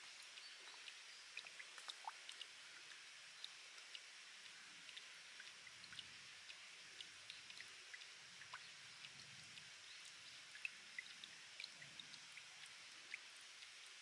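Faint trickle of spring water seeping from rock, a soft steady hiss with drops plinking irregularly, several a second.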